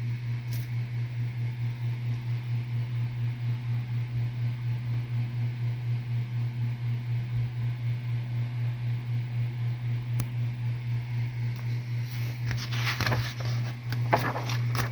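A steady low hum with a fast, even pulse, like a fan or small motor running in the room. About two seconds before the end comes a brief rustle of paper as the calendar's pages are handled.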